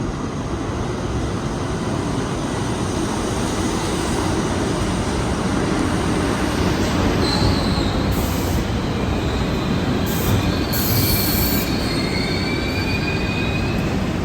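New York City Subway train running through the station: a steady, loud rumble of steel wheels on rail, joined about halfway through by thin, high-pitched wheel squeal.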